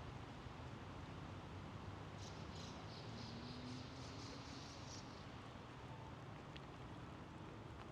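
A small bird chitters in a quick run of high, broken notes for about three seconds, starting about two seconds in, over a steady outdoor background hiss of riverside water and distant traffic.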